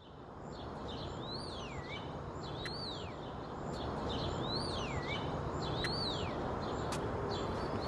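A bird calling four times, each a clear whistle that rises and then falls, about every second and a half. Underneath is a steady hiss of outdoor background noise that fades in at the start.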